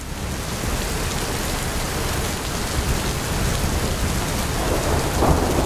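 Heavy rain pouring down in a steady hiss, with a swell of thunder about five seconds in.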